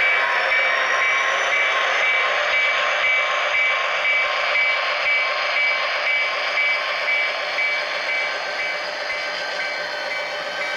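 HO scale model train running steadily along the layout: an even mechanical running noise with a few thin, steady high tones over it.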